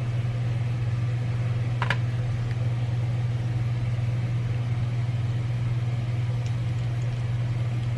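Laundry machines running, a steady low hum, with one short click about two seconds in.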